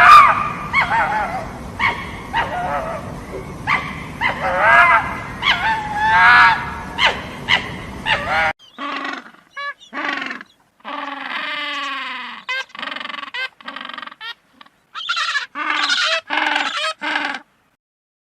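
Animal calls: short yelping, bark-like calls with bending pitch over background noise, then an abrupt cut at about eight seconds to a cleaner series of repeated calls, some sliding down in pitch.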